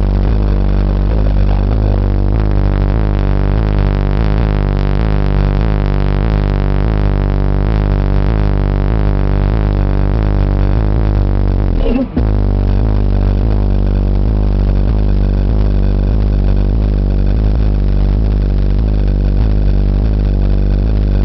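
Music played loudly through a car audio system with two 12-inch subwoofers, dominated by heavy, sustained deep bass notes. The sound drops out for a moment about halfway through.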